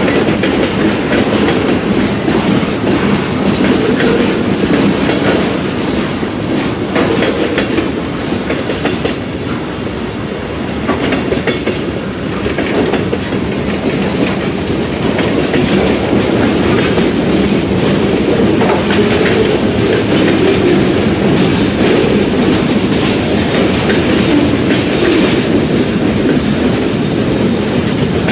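Freight train cars rolling steadily past: a continuous rumble of steel wheels on rail with clickety-clack over the rail joints, easing a little about a third of the way in before building again.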